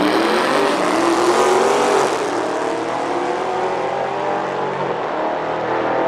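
Two cars at full throttle down a drag strip, engine notes climbing in pitch and dropping at a gear change about two seconds in, then carrying on and growing duller as the cars pull away.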